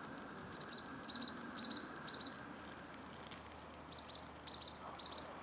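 A small songbird singing two runs of quick, repeated high chirps, the first beginning about half a second in and lasting some two seconds, the second near the end, over a faint steady background hiss.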